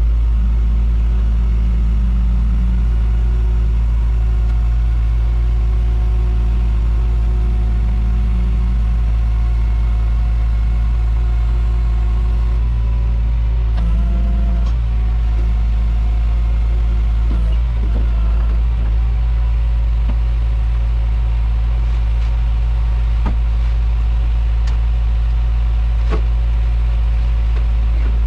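A motor vehicle running steadily, with a loud, even low rumble and a steady drone that barely changes throughout.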